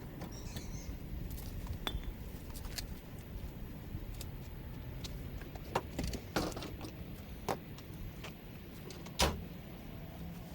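Light metallic clinking and a few sharp knocks at irregular intervals, the sharpest about nine seconds in, over a low steady hum.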